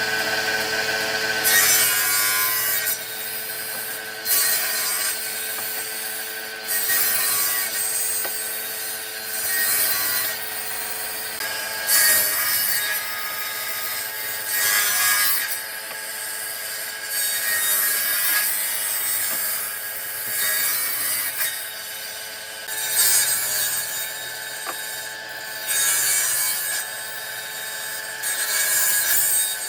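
A power tool running steadily while it abrades or cuts into a wood slab. The hiss swells in louder surges every two to three seconds as the tool bites into the wood on each pass.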